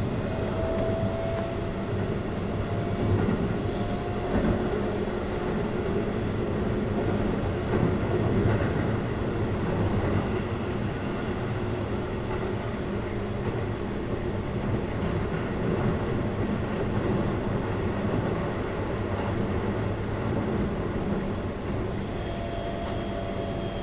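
Keihan 3000 series electric train running between stations, heard from inside the passenger car: a steady rumble of wheels on rail and running gear. A faint steady whine is there near the start and again near the end.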